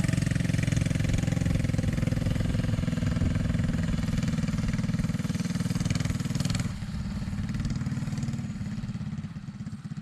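Mini bike's small engine running close by, then quieter about two-thirds in and fading further near the end.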